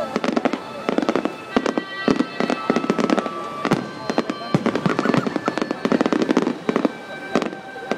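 Aerial firework shells bursting in quick succession, a dense, unbroken run of sharp bangs.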